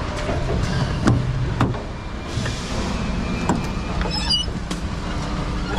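Scania log truck's diesel engine running as the loaded truck drives slowly, with a few knocks and a brief high squeak about four seconds in.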